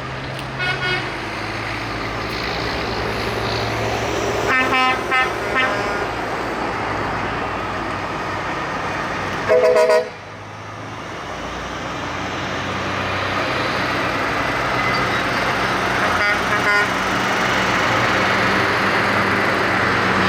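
Trucks driving past with engines running, sounding their horns in several short toots; the loudest is a two-note horn blast about ten seconds in. The engine noise grows louder toward the end as another truck approaches.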